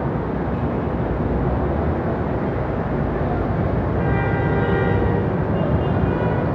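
MRT Line 3 light rail train approaching along the elevated track with a steady rumble; a high whine of several steady tones joins about four seconds in as it draws nearer.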